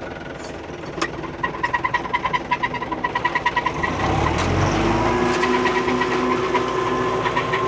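Old tractor running, its pitched engine note pulsing about six times a second, then picking up about four seconds in and settling into a steady, higher drone.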